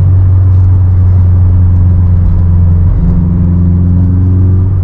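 Honda S2000's four-cylinder engine and road noise from inside the cabin while driving: a steady low drone, whose engine note dips and shifts briefly about three seconds in.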